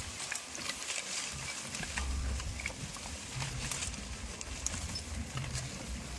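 Goats moving about in their pen: scattered small clicks, taps and rustles over an uneven low rumble, with no bleating.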